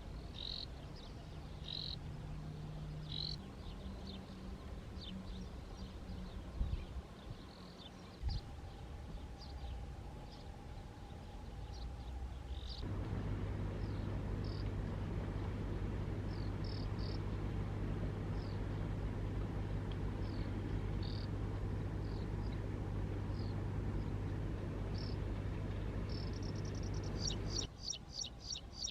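Graceful prinia calling: short high chirps repeated every half second or so, breaking into a fast, rapidly repeated song near the end. A steady low hum runs underneath, louder from about halfway through.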